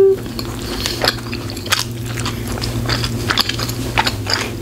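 Close-miked chewing of a bite of hot dog in a soft bun: a run of wet mouth clicks and smacks over a steady low hum, with a short hummed "mm" right at the start.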